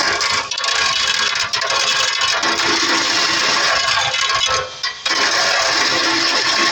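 Plastic chimney brush, spun by a drill, rattling and scraping against the metal inside a smoke exhauster's housing. It starts abruptly, drops out briefly about four and a half seconds in, then starts again.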